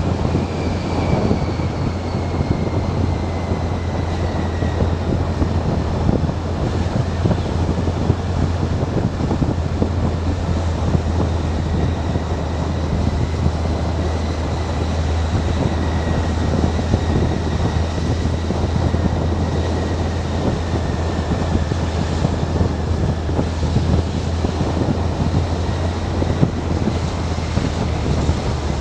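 Motorcycle engine running at a steady cruise with wind rushing over the microphone, and a faint whine that sinks slowly in pitch.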